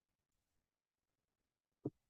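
Near silence: room tone, with one brief soft sound just before the end.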